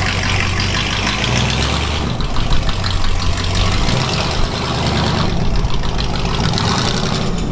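Old squarebody Chevy/GMC truck engine idling through dual straight pipes with no mufflers: a steady, pretty loud exhaust note.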